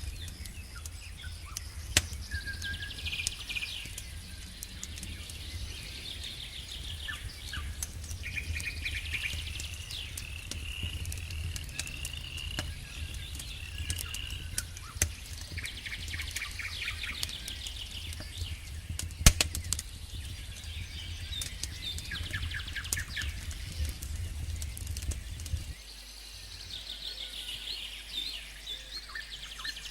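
Campfire burning, its logs crackling with scattered sharp pops, one loud pop about two-thirds of the way in. Over it, night creatures of the lakeside forest keep up repeated high chirping calls.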